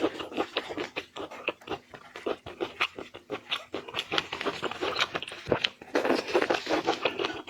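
Close-up crunching, crackling and wet clicking of shrimp being chewed, with many quick irregular snaps.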